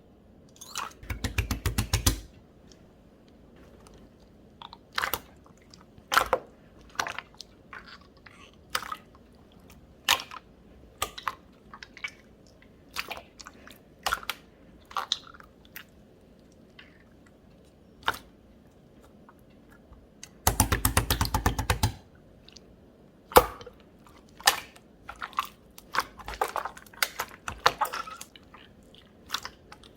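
Chewy, jelly-textured slime being squished and poked by hand: scattered sticky pops and clicks. Twice it breaks into a quick run of rapid crackling clicks, about a second in and again around twenty seconds in.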